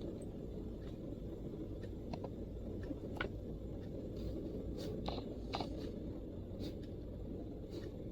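Occasional, irregular keystrokes on a MacBook keyboard: about ten short clicks spread unevenly over the seconds, over a steady low background rumble.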